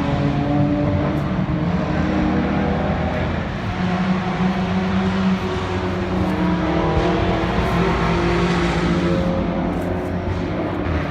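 Race car engines running at speed, several pitches overlapping and rising and falling as the cars go by.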